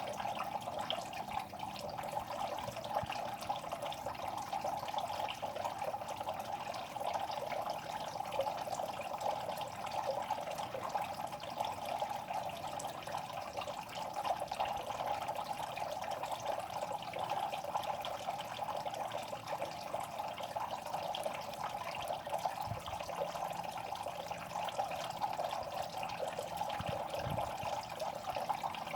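Steady water sound in a pond: a continuous fine crackling trickle with many small pops, going on evenly without pause. The uploader takes it for the fish making noise.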